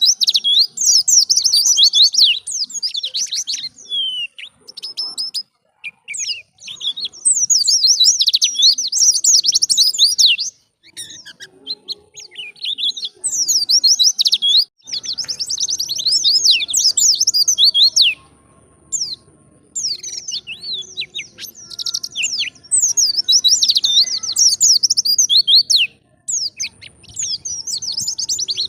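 White-eye (pleci) singing a fast, high twittering song of quick up-and-down notes, in bursts of a few seconds with short pauses between them.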